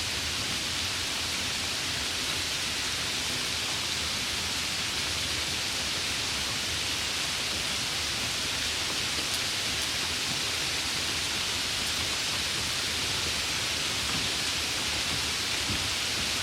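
Steady summer rain falling: an even, continuous hiss, strongest in the upper range.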